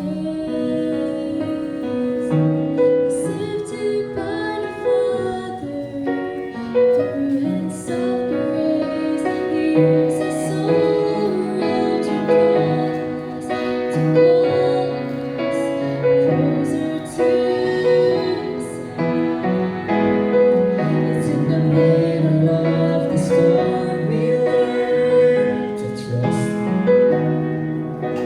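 A gospel song sung by a female voice with piano accompaniment.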